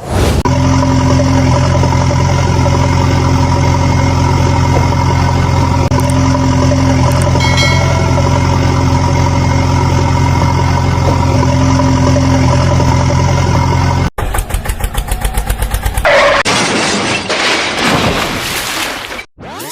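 Tractor engine running steadily at idle. After a sudden cut, a faster, pulsing engine sound takes over, and a louder rushing noise fills the last few seconds.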